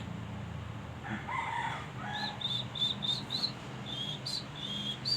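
Prenjak (prinia) calling in short, sharp, high chirps repeated rapidly in a run, about three a second. A rooster crows once, lower and longer, about a second in.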